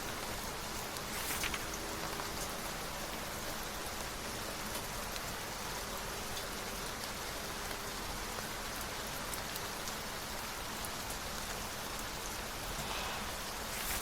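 Steady rain falling, an even hiss at constant level. A brief crisp rustle stands out about a second in, and another near the end.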